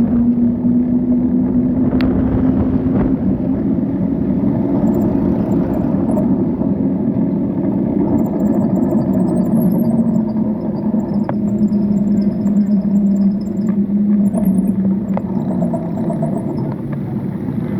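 Steady engine drone with road and wind rumble while riding along a road, its pitch sinking slightly partway through.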